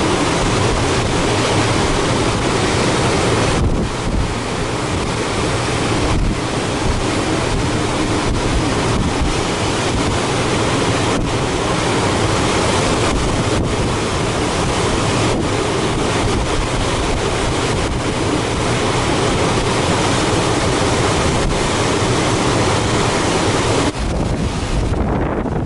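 Strong typhoon wind buffeting the microphone: a loud, continuous rush of noise that dips briefly now and then and eases near the end.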